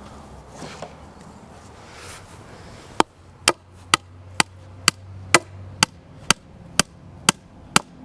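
A hand tool striking hard and repeatedly, eleven sharp blows at an even pace of about two a second, starting about three seconds in.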